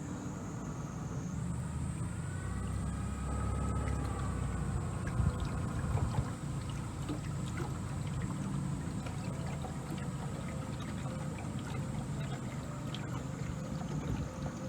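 Small tour boat running steadily along a moat: a low, even motor sound with water moving along the hull.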